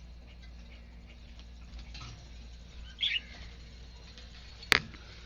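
Caged pet birds: a short burst of chirps about three seconds in, over faint scratching and shuffling of birds moving about, with one sharp click near the end.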